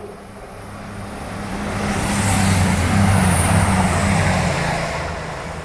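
East Midlands Railway express train passing through the station without stopping: a low engine drone and rushing noise swell to a peak about three seconds in, then fade as it goes away.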